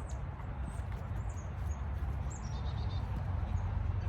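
Small birds chirping faintly in the background, a few short high calls scattered through, over a steady low rumble.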